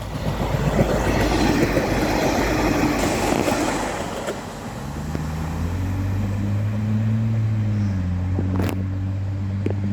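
Diesel passenger railcar passing close by: a rush of wheel and rail noise for about the first four seconds, then the diesel engine's steady low drone takes over, rising slightly in pitch about halfway through as it pulls away.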